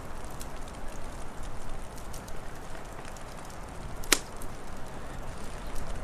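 Wood fire crackling with a steady hiss under scattered small pops, and one sharp loud pop about four seconds in.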